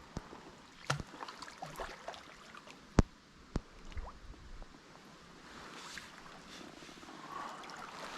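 Flooded river water running with a steady rushing hiss, broken by a few sharp knocks and clicks of handled fishing tackle, the loudest about three seconds in.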